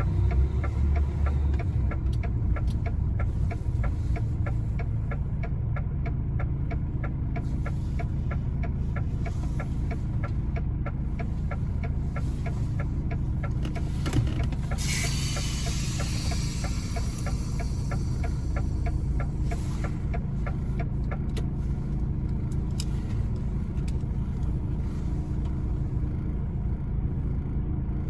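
A truck's diesel engine runs steadily at low revs while the lorry is manoeuvred. About halfway through there is a sudden hiss of air that fades over a couple of seconds.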